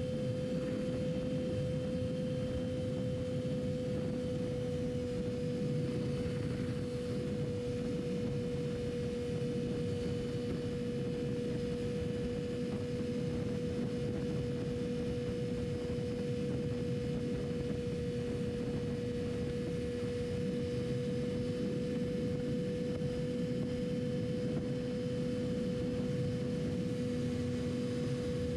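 Yamaha R6's inline-four engine running at a steady speed under wind rush. The engine gives a constant droning tone that hardly changes in pitch.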